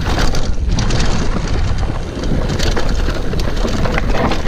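Downhill mountain bike running fast down a dirt trail: steady wind rush and rumble on the microphone with frequent rattles and knocks from the bike and tyres over rough ground.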